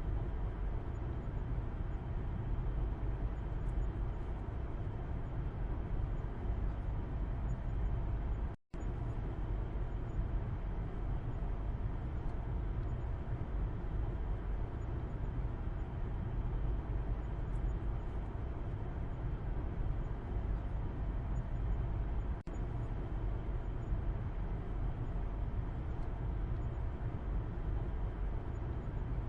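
Steady low rumble of a car's road and engine noise heard from inside the cabin, as from the back seat. The sound drops out completely for a split second about nine seconds in.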